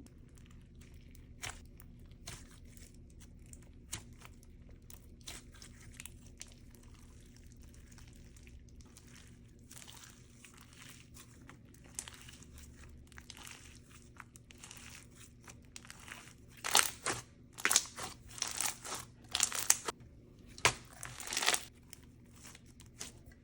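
Jelly slime mixed with soy wax chips and snow fizz being squished and pressed by hand, giving soft scattered crackles and then a run of louder crunches in the last third.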